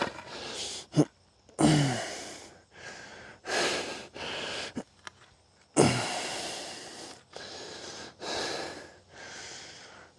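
A man breathing hard in a string of forceful breaths in and out, with a couple of short grunts, while straining against a wooden stick in an isometric exercise.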